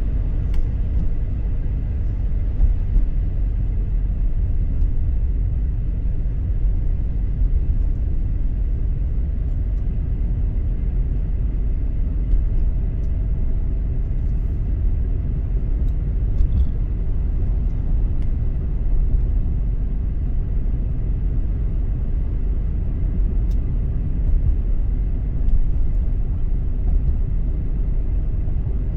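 A car driving along a road, making a steady low rumble of road and engine noise.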